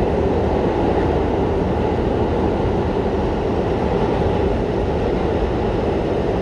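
Steady rumble and roar of an R211T subway car's wheels and running gear, heard from inside the car as the train runs between stations.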